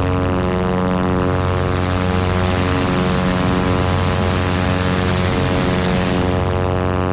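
Cessna 337 Skymaster push-pull twin in flight, its front and rear propeller engines both running in a loud, steady drone with a slow, regular waver in its low hum.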